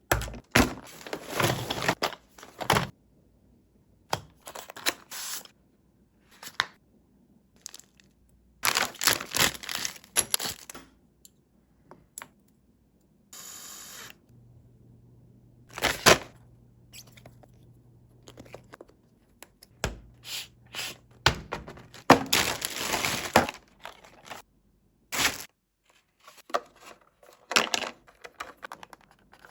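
Toy RC car running in stop-start bursts of noisy scraping and rattling, with short silent gaps between them. A steady low hum comes in about the middle.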